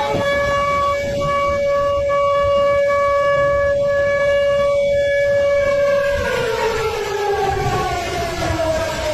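Outdoor warning siren sounding one long steady tone, then winding down in pitch about six seconds in.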